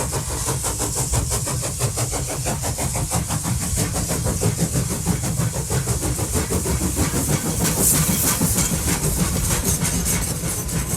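A train running, with a rapid, steady beat over hiss and a low rumble.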